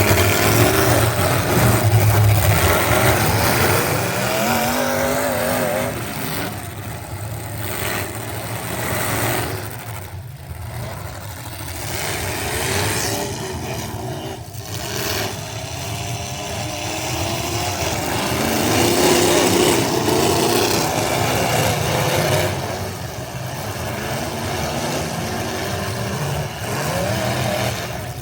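A truck engine running hard and revving, its pitch wavering up and down, with a brief drop in level about ten seconds in.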